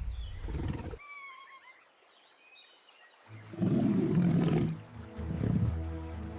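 Faint high chirps, then about three seconds in a large animal's deep, loud roaring call that carries on to the end.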